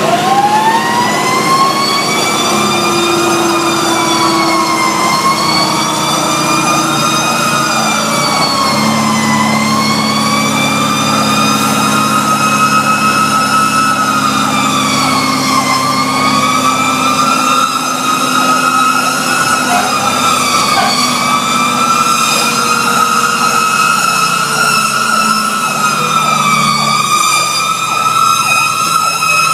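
Fire truck siren winding up and then wailing, its pitch sliding slowly up and dipping every few seconds, heard from aboard a Pierce Arrow XT aerial ladder truck running on an emergency response. The truck's engine hums steadily underneath.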